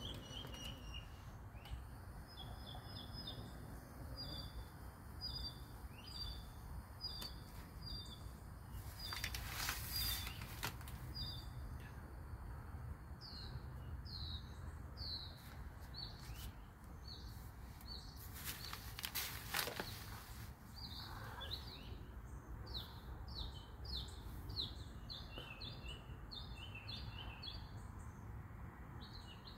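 Birds chirping in quick series of short high notes over a faint outdoor background, with two brief loud rushes of noise, one about ten seconds in and one about twenty seconds in.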